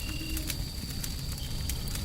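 Wood fire crackling, with scattered sharp pops over a steady low rumble of white noise. A few faint short held tones sound in the background.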